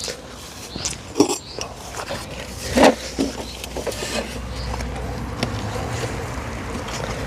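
Wooden beehive boxes knocking and scraping as an extra brood box is handled and set onto a hive, the loudest knock about three seconds in. A steady hum of honey bees builds in the second half.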